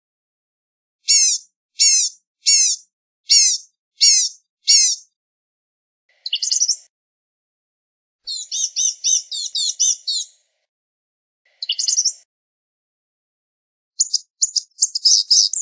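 Blue-gray gnatcatcher calling: a series of six high, down-slurred notes about two-thirds of a second apart, then several short bursts of rapid high notes with silent gaps between them.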